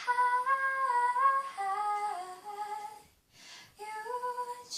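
A high solo singing voice, unaccompanied, sings wordless "oh" vocal runs that step down in pitch. It sings two phrases with a short breath between them, about three seconds in.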